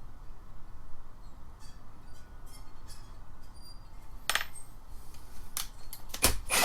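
Small metal tools and parts clinking and knocking as they are handled and set down: a few light ticks, then a run of sharper clinks in the second half, the loudest just before the end.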